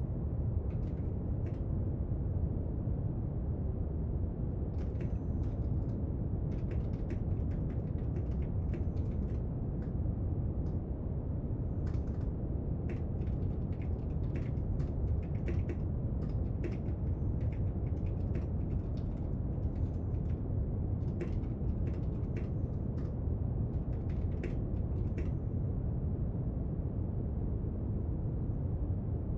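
Steady brown noise, an even low rush, with scattered small clicks and taps of desk study work over it that stop near the end.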